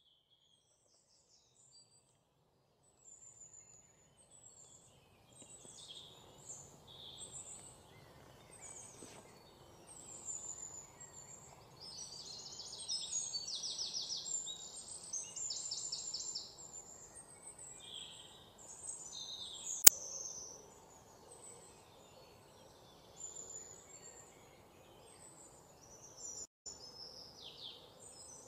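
Several birds chirping and trilling over a steady low background noise, with one sharp click about two-thirds of the way through.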